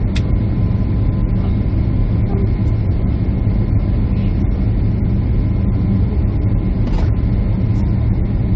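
Steady jet airliner cabin noise: a constant low rumble of engines and airflow heard from inside the cabin, with a faint click just after the start and another about seven seconds in.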